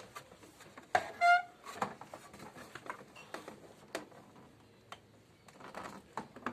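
Scattered clicks and knocks of hands handling parts inside a washing machine cabinet, with a short high squeak about a second in.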